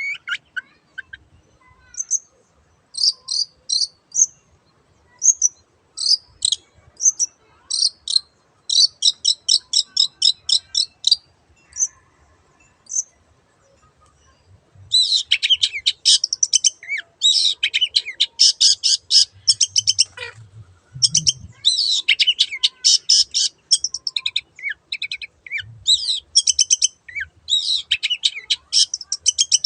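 Long-tailed shrike (cendet) singing in rapid, high chattering phrases. They come in short, spaced bursts at first and become a dense, almost unbroken stream about halfway through.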